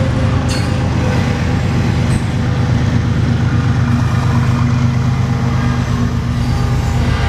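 Double-stack intermodal freight train rolling past at speed: a loud, steady rumble of well cars on the rails with a low, steady hum underneath.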